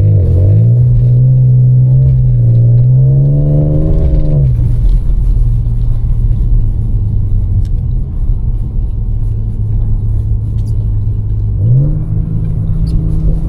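Audi S5's supercharged 3.0-litre V6 pulling hard, its pitch rising steadily for about four seconds, then dropping sharply and running at a lower steady pitch, before the revs step up again near the end.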